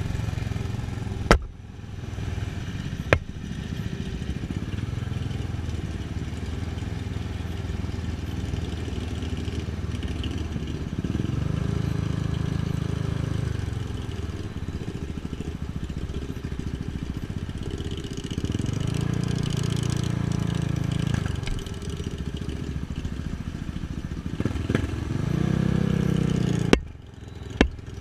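KTM 690 Duke single-cylinder engine running on the move, revving up and easing off several times. A few sharp clicks are heard, two near the start and two or three near the end.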